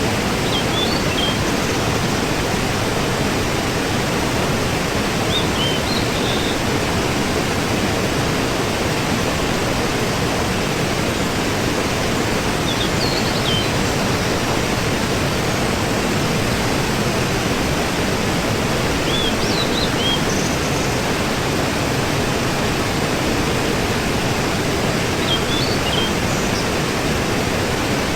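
Waterfall, a steady rush of falling water. Short faint bird chirps come through it about every six seconds.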